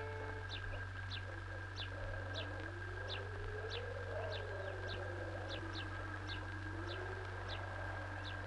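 A small bird chirping a short, high, falling call over and over, about one and a half times a second. Beneath it a faint low tone slowly rises and falls, over a steady soundtrack hum.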